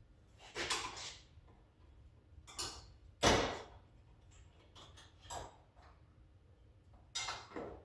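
Car parts being handled and set down during a front-end teardown: a series of about five clunks and scrapes, the loudest a sharp knock about three seconds in.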